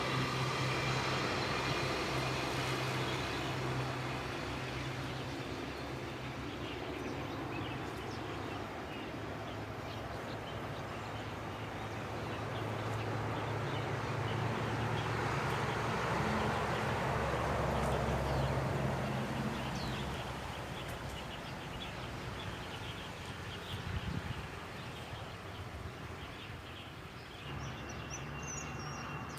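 An engine running steadily, with a low hum that swells louder for a few seconds in the middle.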